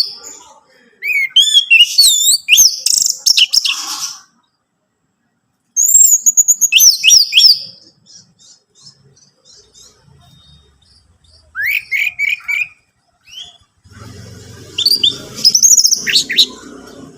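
Orange-headed thrush singing: four loud bursts of rapid, sweeping whistled phrases with pauses between them. A faint low hum sits under the last phrase near the end.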